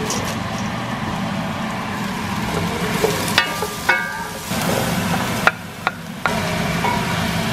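Pork and diced vegetables sizzling as they are stir-fried in a stainless steel pan, over a steady low hum. Between about three and six seconds in, a few sharp knocks of a wooden spatula on the pan ring briefly.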